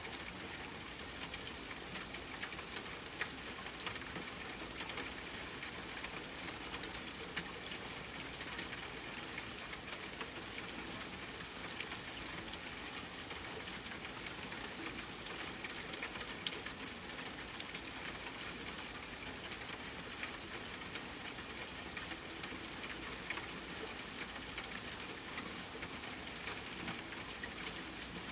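Steady rain falling, a dense patter with many individual drops ticking on a hard surface.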